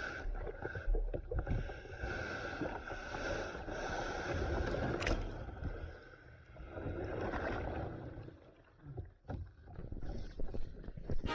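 Sea kayak in surf: water rushing and splashing around the hull, with a low rumble that dips twice.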